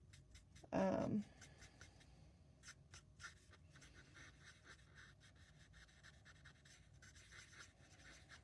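Marker tip scratching on cardstock in many quick, short strokes, faint and irregular, as a stamped image is coloured in.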